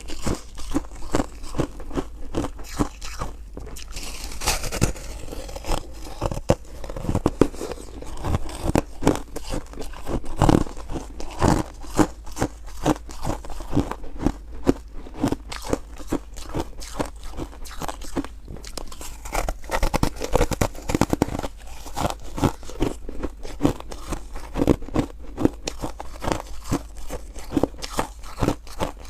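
Close-miked biting and chewing of star-shaped foam ice: a dense, irregular run of crisp crunches, many per second.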